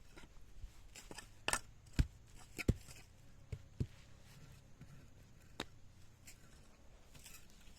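Irregular sharp knocks and taps, about seven of them unevenly spaced, the loudest about two seconds in: hand work with a tool.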